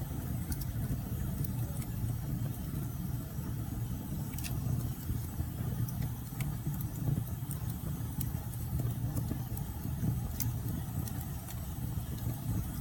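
Wood fire burning: a steady low roar with sharp crackles and pops about once a second.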